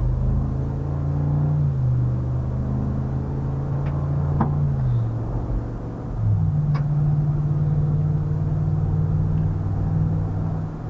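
Ram 1500's 5.7-litre HEMI V8 running under way, a low drone whose pitch steps up and down a few times and then holds a higher steady note from about six seconds in. A couple of faint short clicks sound near the middle.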